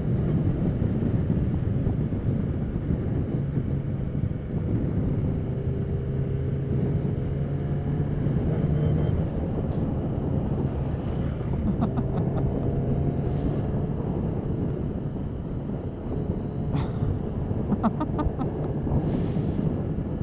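Motorcycle engine running at a steady cruise under heavy wind noise on the microphone, the engine tone holding nearly level, with a few faint ticks in the second half.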